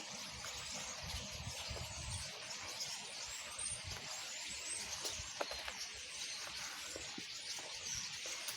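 A large flock of birds calling all at once, a steady dense wash of many small high-pitched calls overlapping with no single bird standing out.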